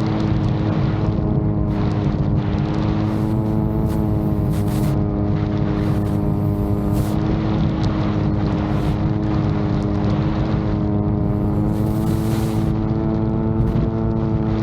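VTOL drone's propeller motor running at a steady pitch, with strong wind rumbling and buffeting on the microphone.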